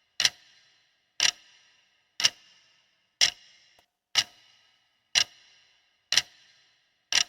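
Ticking-clock countdown timer sound effect, one sharp tick a second, eight ticks in all, each with a short ring. It marks the answering time running on a quiz question.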